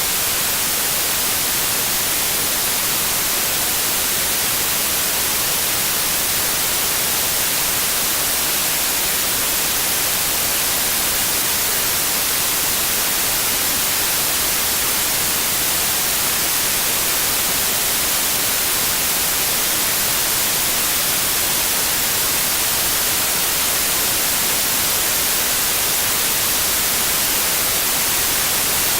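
Steady white noise: an even, unchanging hiss that is brightest in the highs.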